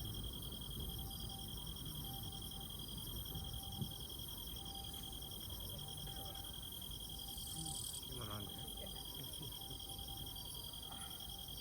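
Crickets and other insects chirping: a steady high trill with faster pulsed chirps above it. Faint voices can be heard around two-thirds of the way through.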